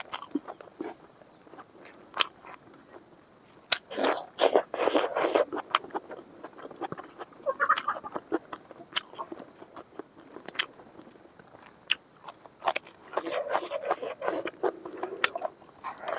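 Close-miked eating sounds of chicken dry fry and rice eaten by hand: chewing and crunching with scattered sharp clicks, in two denser spells of chewing about four seconds in and again near the end.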